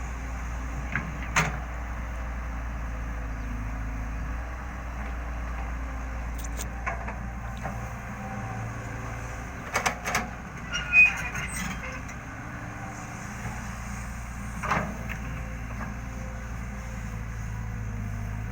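Excavator diesel engine running steadily under work, with a few sharp knocks: one about a second and a half in, a loud cluster around ten to eleven seconds, and another near fifteen seconds.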